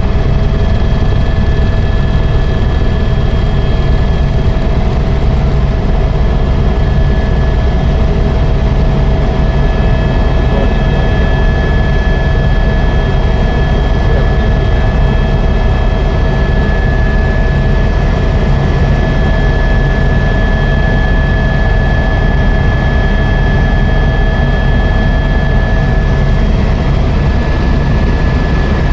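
Helicopter in flight: loud, steady engine and rotor noise with a constant high whine over it.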